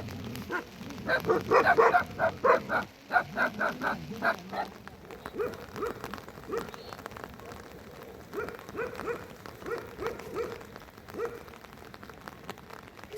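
A dog barking: a quick run of loud barks in the first few seconds, then slower, softer barks about once a second. Rain falls in the background.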